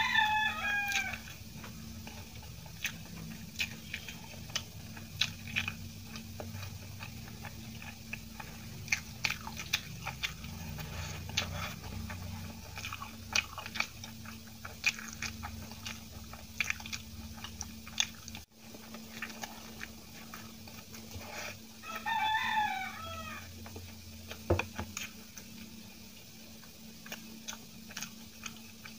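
Close-miked eating sounds: soft idli being bitten and chewed, with wet mouth clicks and smacks scattered throughout over a steady low hum. Twice, at the very start and about two-thirds of the way in, a short call with falling pitch sounds in the background, louder than the chewing.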